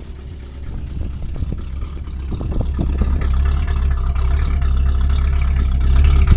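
Car engine idling steadily at the exhaust tailpipe, growing louder over the first few seconds as the pipe comes near, with a few light knocks early on.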